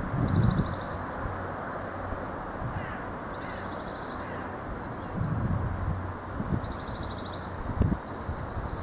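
Irish Rail 29000 class diesel multiple unit running away from the listener, heard as a steady low rumbling rush with a few low thumps. A songbird sings short, high trilling phrases over it, repeated every second or two.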